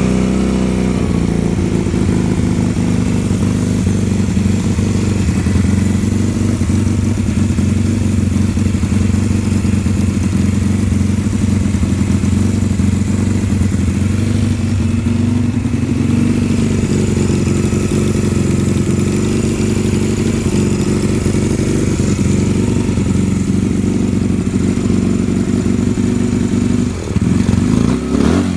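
Honda Rebel 250 (CMX250C) air-cooled parallel-twin engine running steadily at idle after a start, its carburetor only partly cleaned after sitting for a couple of years. Near the end the running briefly wavers and the pitch shifts.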